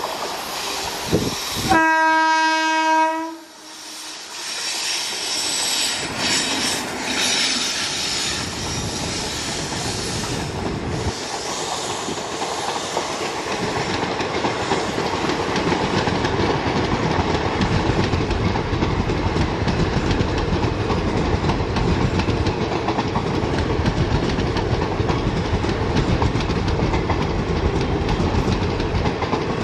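WAP-4 electric locomotive sounding its horn in one blast of about a second and a half, about two seconds in. The express then passes at speed, with a rising rumble that settles into a steady rush of ICF coach wheels on the rails.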